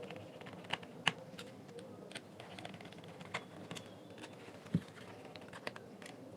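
Faint, irregular small clicks and taps of the speaker's plastic parts and screws being handled during reassembly, with one duller knock a little before five seconds in.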